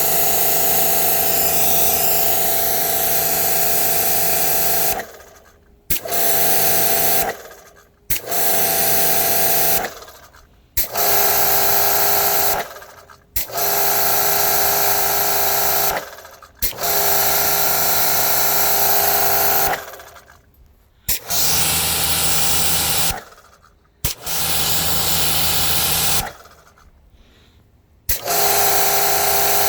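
Kränzle pressure washer motor and pump running with an odd grinding noise, stopping and restarting about nine times in quick succession.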